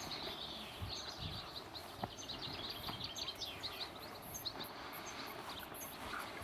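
Small birds chirping in quick, high repeated notes over a steady outdoor hiss, with a few soft thumps of footsteps on grass.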